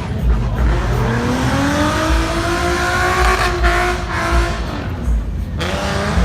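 Car engine revving: its pitch climbs for about two seconds and falls back, cuts off abruptly near the end, then starts climbing again.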